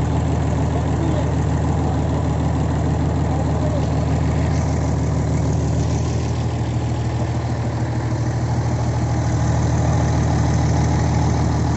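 An engine idling steadily on a test run, with an even, unchanging beat.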